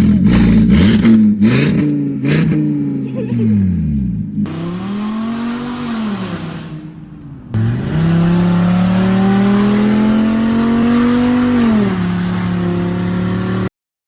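Volkswagen car engine revved through the exhaust: a few quick throttle blips with sharp clicks, then a longer rev held high and slowly climbing before dropping back to idle. The owner thinks the exhaust has a hole.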